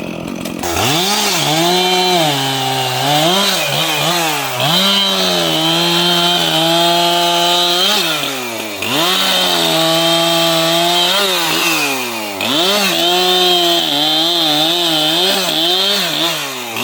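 Two-stroke chainsaw running at full throttle and cutting wood. Its engine note holds steady for stretches and keeps dropping and climbing again as the throttle is let off and reapplied.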